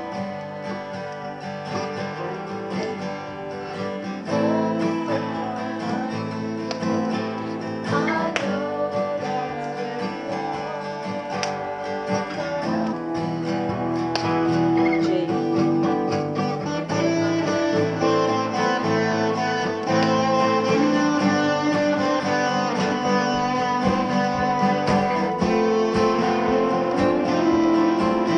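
Acoustic guitar music, gradually growing louder.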